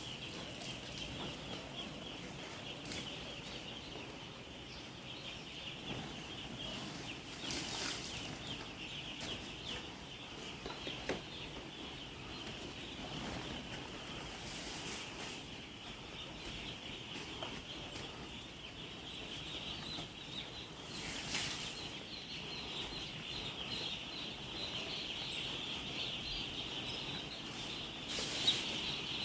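A flock of chickens calling, a dense continuous chorus of many overlapping high peeps and clucks. A few short rustling bursts break in now and then.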